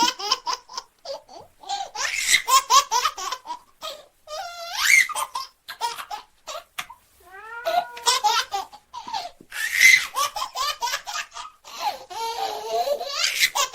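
A baby laughing in repeated fits, with short pauses between them.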